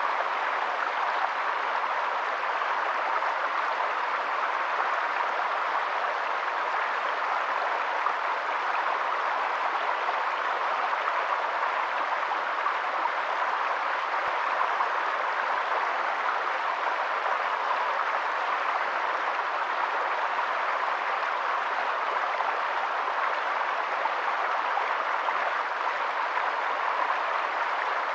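Steady, even rush of running water, with no change throughout.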